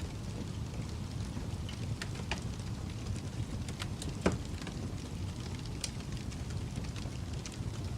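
Wood fire burning in a fireplace: a steady low rumble of flames with scattered crackles and pops, the loudest pop about four seconds in.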